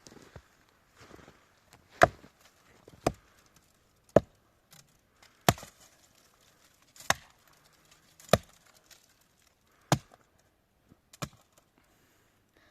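Axe chopping firewood: eight sharp blows at a steady pace, a little over a second apart.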